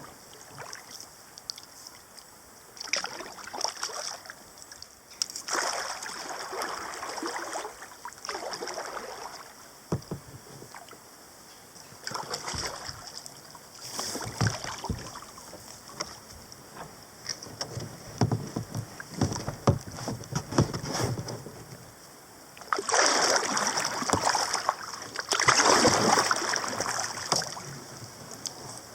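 Paddle strokes from a 17-foot sea kayak on a river: irregular swishes and splashes of water, with a few knocks around the middle. The splashing is loudest in the last few seconds.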